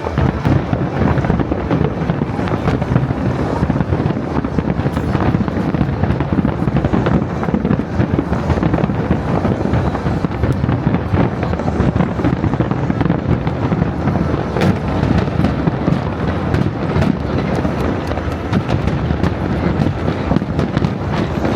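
Fireworks display in a dense, continuous barrage: many overlapping shell bursts and crackles with no pause.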